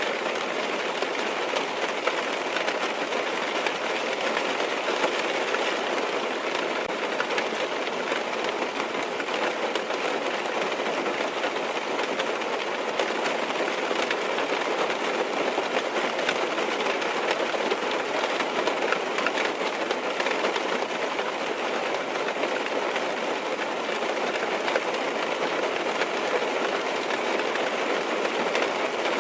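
Rain falling on a car's roof and windows, heard from inside the car: a steady, dense patter with many small drop ticks.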